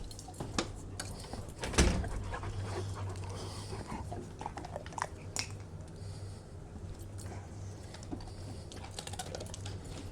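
Dogs panting and chewing dental chews, with scattered clicks and knocks and one louder thump about two seconds in, over a steady low hum.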